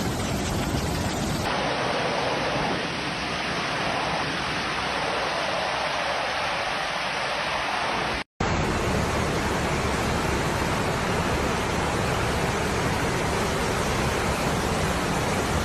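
Floodwater rushing in a steady, even roar of noise, heard in several spliced clips with a brief dropout about eight seconds in.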